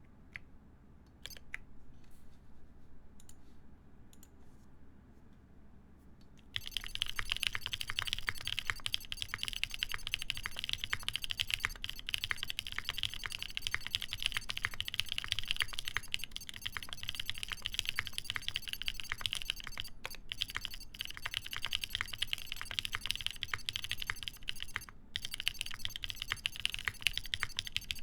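Keystrokes on a plateless Ion Jubi mechanical keyboard with lubed NK Nolives switches and GMK Dolch keycaps: a few scattered presses, then about six seconds in, fast continuous typing. It pauses briefly near the end.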